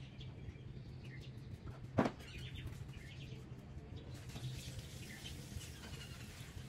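Small birds chirping over a low steady hum, with one sharp knock about two seconds in and a faint hiss from about four seconds in.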